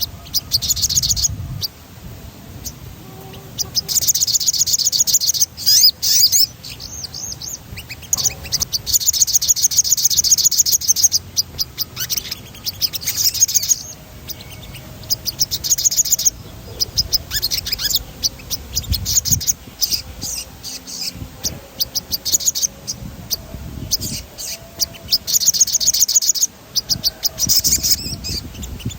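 Sogon songbird singing in fast, rolling, high-pitched trills of rapidly repeated notes, delivered in bursts of one to two seconds with short pauses between them.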